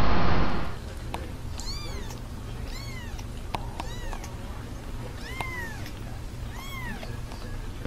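A loud rushing noise cuts off under a second in, then a young kitten mews about five times. Each is a short high call that rises and falls in pitch.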